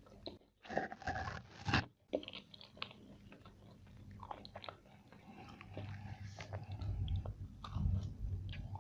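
Close-miked biting and chewing of crunchy food: a run of loud, crisp crunches about a second in, then softer chewing clicks, with a low rumble building in the second half.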